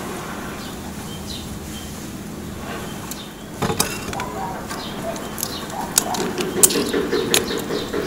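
Soft sipping through a straw from an iced drink, then from about four seconds in, irregular crisp crunches and clicks of chewing the crackling skin of a deep-fried pork knuckle (crispy pata) close to the microphone.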